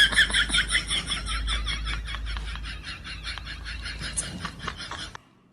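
An animal making a fast run of high chirping calls, about six a second, slowly weakening and then cutting off near the end.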